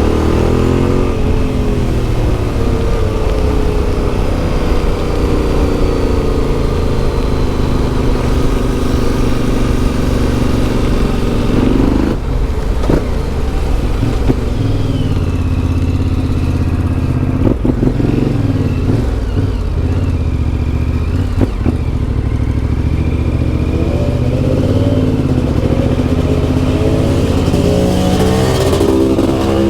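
Yamaha Ténéré 700's CP2 parallel-twin engine through an Akrapovic exhaust, revving up and down continuously as the bike is ridden along a dirt track, with a few sharp knocks partway through.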